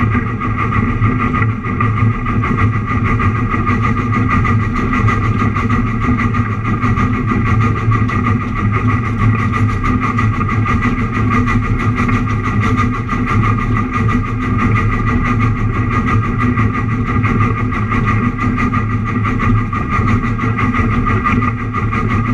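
Narrow-gauge train's engine running steadily as the train travels along the track, heard from the cab.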